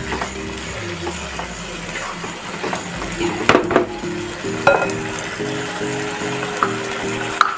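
Soya chunk curry sizzling in a pan as it is stirred, with a few sharp clicks of the spoon against the pan. Soft background music plays under it.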